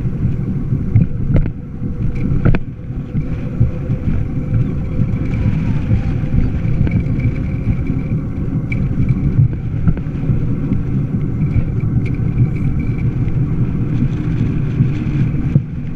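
Steady, loud low rumble of riding along: road and wind noise on a moving bike-mounted microphone, with a faint steady whine above it.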